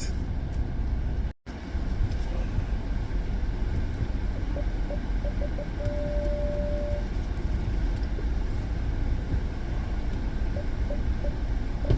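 Steady low rumble of a car's engine and cabin as it waits in a line, with a brief dropout in the sound about a second and a half in. Around the middle, a run of quick soft beeps turns into one held beep lasting about a second, and quick beeps start again near the end.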